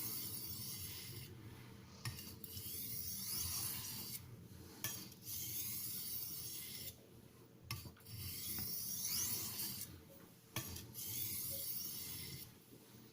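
A steel knife blade being drawn back and forth across a fine-grit (FEPA 1500 / JIS 6000) aluminium-oxide sharpening stone. The blade makes a hissing scrape in about five long strokes with brief pauses between them.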